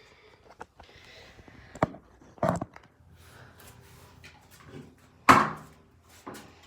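A few knocks and bumps in a small room, the loudest a sharp thump about five seconds in that dies away over half a second.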